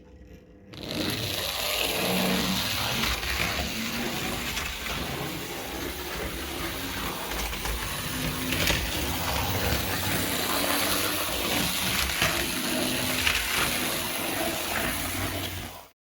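Small electric motor and gears running steadily with dense clicking and rattling, starting about a second in and cutting off abruptly near the end.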